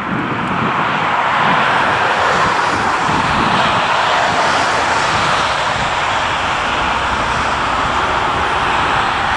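Jet airliner engines running loud: a steady, dense rush that swells over the first second or so and then holds.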